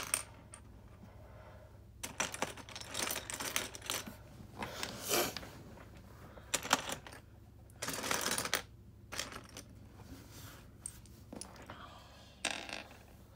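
Small plastic LEGO pieces clicking and rattling as they are picked through and handled, in several short spells with scattered single clicks between.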